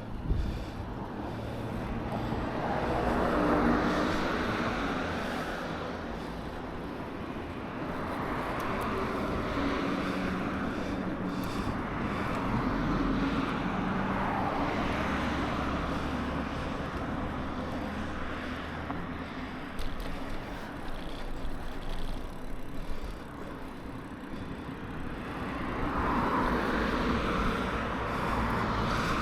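Road traffic passing: several vehicles swell up and fade away one after another over a steady low rumble.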